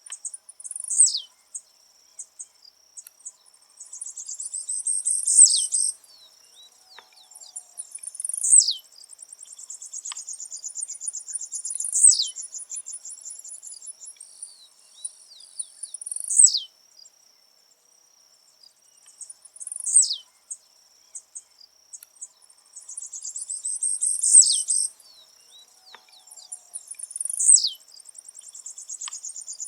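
Blue-black grassquit (tiziu) singing its short, buzzy song over and over, about once every four seconds, eight times. Each phrase is a high buzzy trill ending in a sharp downward slur, with softer high buzzing between phrases.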